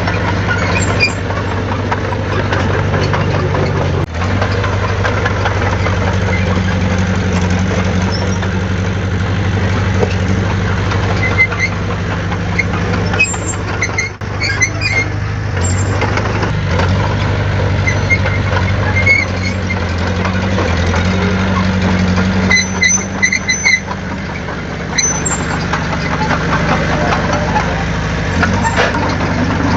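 Heavy diesel earthmoving machine engine running steadily at low speed, its note shifting a little, with brief high-pitched squeaks now and then.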